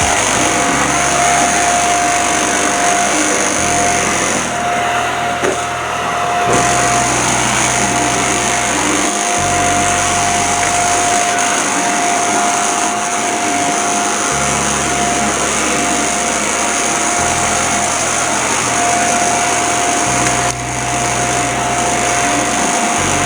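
Vacuum cleaner running steadily on carpet, its motor giving a constant high whine, with a brief drop in loudness about twenty seconds in.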